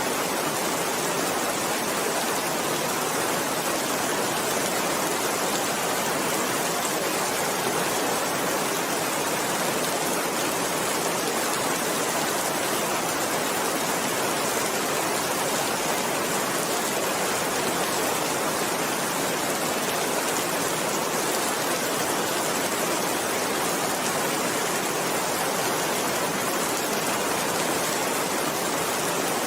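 Steady, heavy rain falling, an even rushing hiss that does not change in strength.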